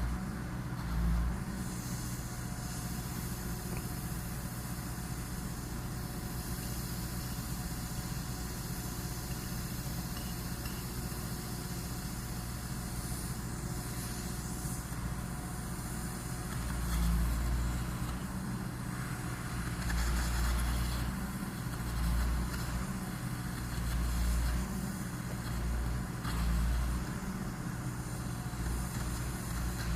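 An engine idling steadily, with several low swells in the rumble in the second half.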